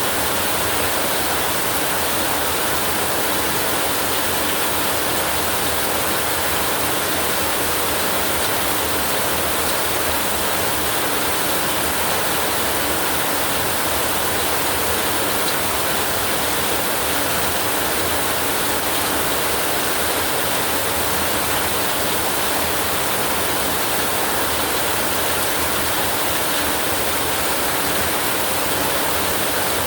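Steady heavy rain, an even, unbroken hiss with no thunderclaps or pauses.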